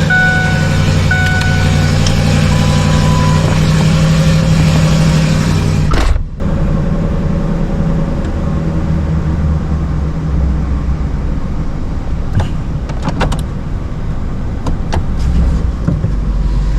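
Truck engine running with a steady hum. About six seconds in the sound changes abruptly to a lower, rougher rumble with a few scattered clicks.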